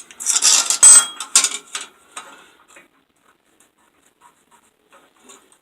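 Small steel flat-bar hinge parts clattering and clinking against each other for about two seconds, with brief metallic ringing, then only a few faint ticks.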